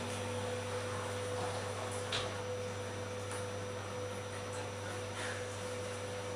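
Water dripping from a tap: two drops about three seconds apart, over a steady low hum.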